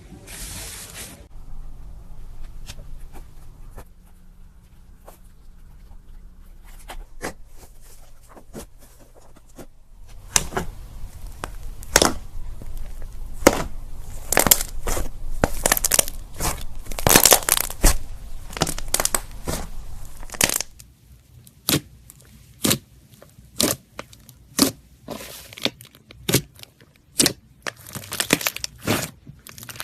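Slime being squeezed and worked by hand, making popping and crackling sounds: faint clicks at first, a dense run of crackles through the middle, then single sharp pops about once a second near the end.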